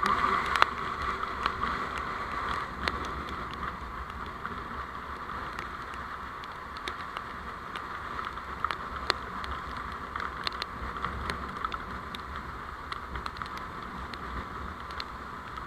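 Steady vehicle road noise picked up by a dashcam while driving, a low rumble under a hiss, with scattered small ticks throughout.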